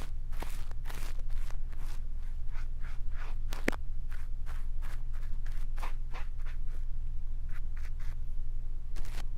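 Soft, irregular brush strokes rustling close against a microphone, as in ASMR ear cleaning with a brush, with one sharp click a little under four seconds in. A steady low hum runs underneath.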